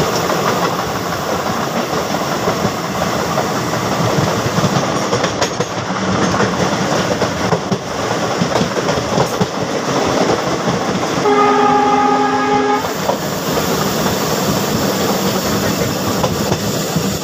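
Passenger train coaches rushing past close alongside, their wheels rumbling and clattering on the rails. A train horn sounds about eleven seconds in for roughly a second and a half.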